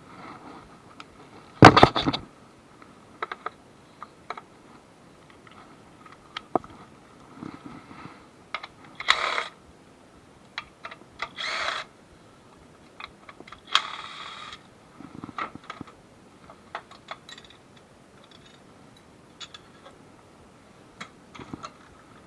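Hand tools and metal parts clinking and clanking during work on a car's engine bay. There are scattered sharp clicks and knocks, a loud cluster of clanks about two seconds in, and a few short scraping or rattling bursts around the middle.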